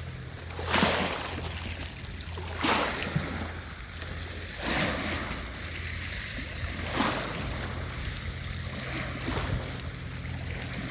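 Sea waves washing onto the shore, swelling and falling back about every two seconds, over a steady low hum.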